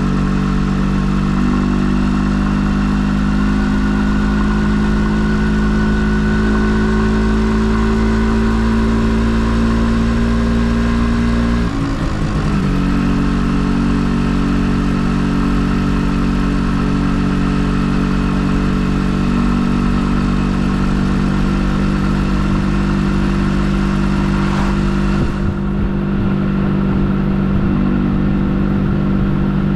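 MZ ETZ 250's single-cylinder two-stroke engine, breathing through its original BVF exhaust, running at a steady, even speed. About twelve seconds in the note breaks briefly and settles at a slightly different pitch.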